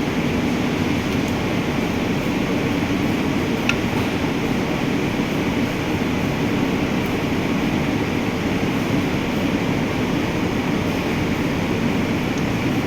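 Steady droning mechanical background noise, unchanging throughout, with one faint click about four seconds in.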